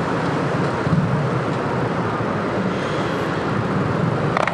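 Motorcycle engine running with steady wind and road noise on the rider's microphone, moving through slow traffic.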